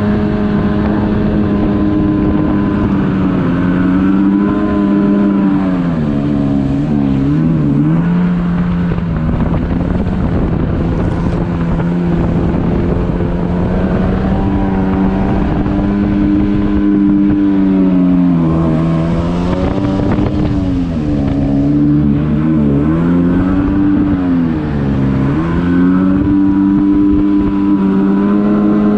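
Yamaha WaveRunner personal watercraft engine running under way. Its note drops and climbs back several times as the throttle is eased off and opened again.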